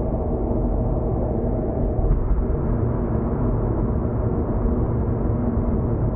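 Car cruising at steady speed: continuous tyre and road rumble with a steady engine drone, and a brief bump about two seconds in.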